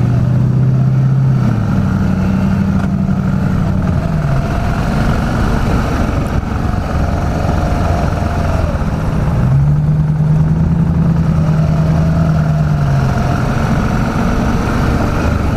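BMW G650GS single-cylinder engine running as the motorcycle is ridden. The revs rise about a second and a half in and drop back a few seconds later, then climb again near the middle and ease off toward the end.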